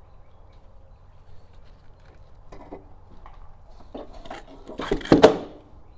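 Metal parts knocking and scraping as a loosened steering linkage assembly is worked free of the truck frame. About five seconds in comes a loud metallic clatter as it comes loose and drops.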